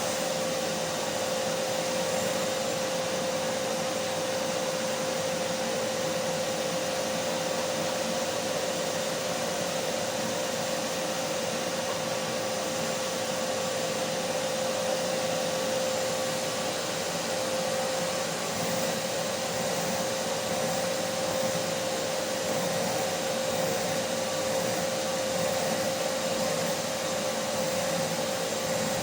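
Vacuum cleaner motor running steadily, a continuous rushing of air with a steady whine near 500 Hz.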